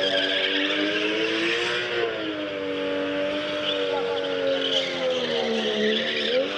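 Drift cars running hard at high, steady revs with tyres squealing, the engine note held and wavering, then sagging slowly near the end.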